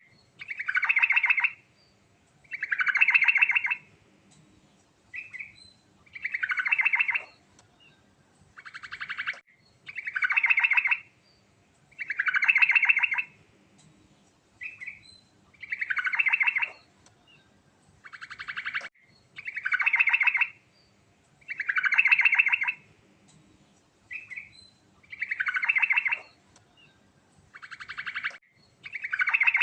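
Yellow-vented bulbul (trucukan) singing, repeating a rapid rattling phrase about every two seconds, each phrase about a second long with a short stuttering note between phrases.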